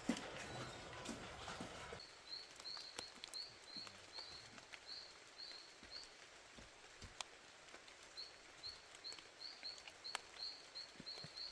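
Faint background; after some knocking and rustling in the first two seconds, a small bird gives two runs of short, high chirps repeated about three times a second, with a few scattered clicks.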